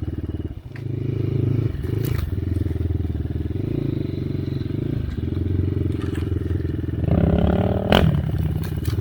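Enduro dirt bike engine running under load while riding, its throttle shut briefly about half a second in and then opened again. Near the end the engine revs harder with rising pitch, and there is a sharp knock about eight seconds in.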